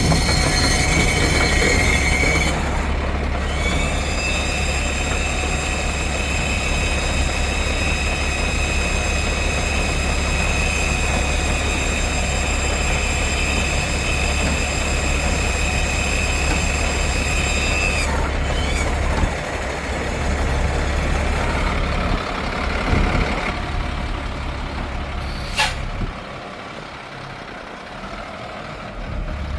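GMC feed truck's engine idling steadily, with a steady high whine over it from about four seconds in until about eighteen seconds. Near the end the engine sound fades away and a single sharp click is heard.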